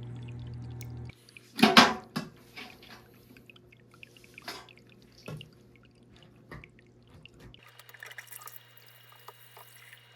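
Water splashing and pouring in a planted aquarium tank as it is filled or its water changed. One loud splash comes about two seconds in, then several smaller splashes and drips, settling into a steadier pour near the end. Soft background music stops about a second in.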